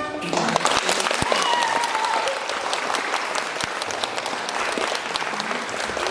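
Audience applauding, many hands clapping, which begins as the music stops.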